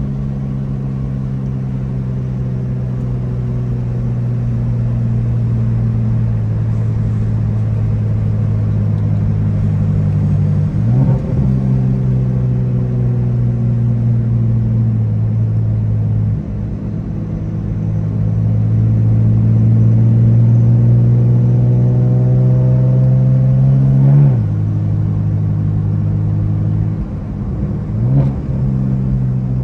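Single-turbo BMW N54 straight-six heard from inside the car, a steady low drone while driving. Around the middle it climbs in pitch as the car accelerates, with brief breaks about a third of the way in, at about three quarters and near the end that fit gear shifts.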